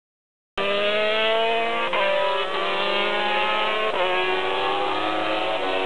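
MotoGP racing motorcycle engine at full throttle, starting about half a second in. Its pitch climbs steadily, with brief gear changes about every two seconds.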